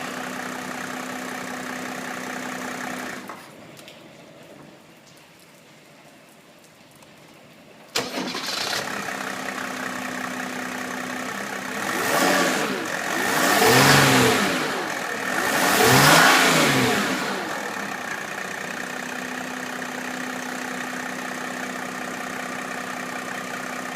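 Mercedes OM606.962 three-litre straight-six turbodiesel idling. It is shut off about three seconds in and restarted about five seconds later, catching straight away after a sharp click. It is then revved up twice and settles back to a steady idle.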